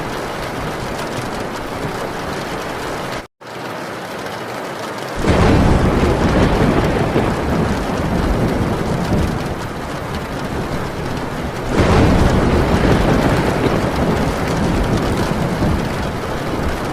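Heavy rain drumming on a metal tin roof, with two long rolls of thunder, the first starting about five seconds in and the second about twelve seconds in. The sound cuts out for an instant about three seconds in.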